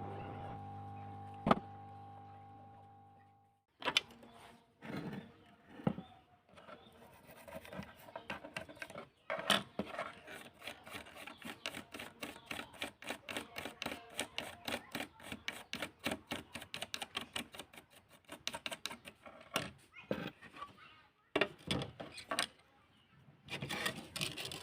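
A steady hum fades out, then a long run of rapid small mechanical clicks and taps, about four or five a second, with a few louder knocks.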